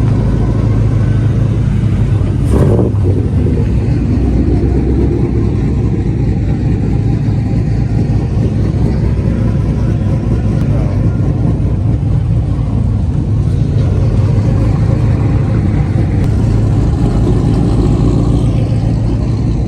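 Car engine running with a loud, steady, deep rumble, with a brief sharp knock about two and a half seconds in.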